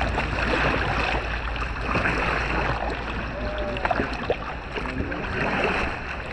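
Kayak paddling: paddle blades dipping and splashing, with water sloshing along the hull and a few small clicks and knocks.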